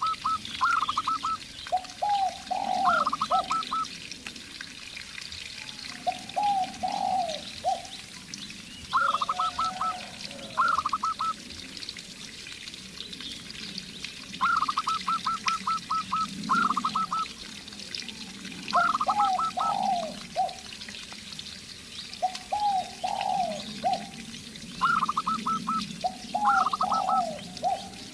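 Zebra dove and spotted dove cooing back and forth: quick runs of high, clipped coos alternate with groups of three or four lower, deeper coos, each phrase repeating every few seconds. Faint chirping of small birds behind.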